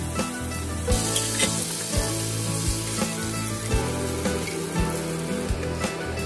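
Food sizzling as it fries in a pan, starting about a second in, over background music with a steady beat.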